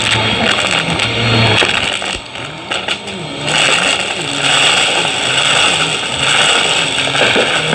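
Vacuum cleaner running, being pushed fast back and forth, its motor pitch rising and falling in a quick repeating pattern. The sound dips quieter for about a second, a couple of seconds in.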